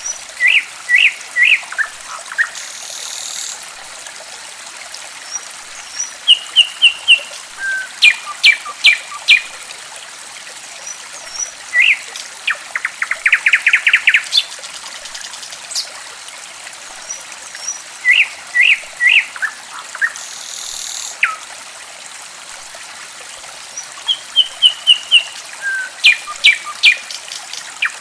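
Songbirds singing in groups of short, sharp chirps and whistled notes, with rapid trills, over the steady trickle of flowing water. The recording is a lure to get silent caged birds singing again.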